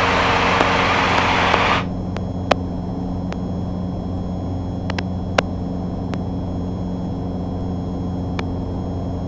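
Cessna 150's four-cylinder Continental O-200 engine running steadily in cruise, heard as a low even drone through the cockpit audio feed. A loud hiss over it cuts off suddenly about two seconds in, and a few faint clicks follow.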